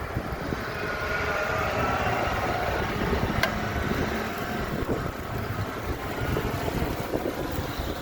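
Strong wind buffeting the microphone in heavy, uneven gusts, with a single sharp click about three and a half seconds in.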